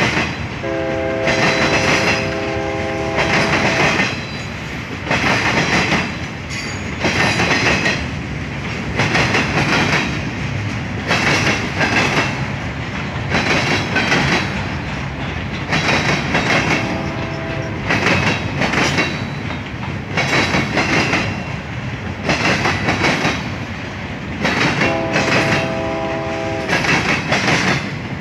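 Freight train of loaded bulkhead flatcars rolling past, its wheels clattering over the rail joints in loud pulses about every two seconds. A chorded train horn sounds three times: about a second in, around the middle, and near the end.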